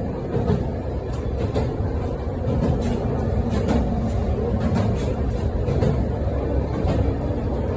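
Train running along the track: a steady low rumble with irregular sharp clicks from the wheels on the rails.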